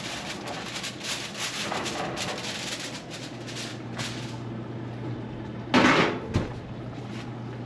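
Kitchen clatter as the oven is opened to get at the roast pork: metal knocks and rattles, then a loud bang followed by a sharp click about six seconds in, over a steady low hum.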